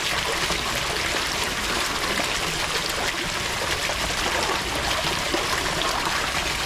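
Water running and trickling steadily without a break.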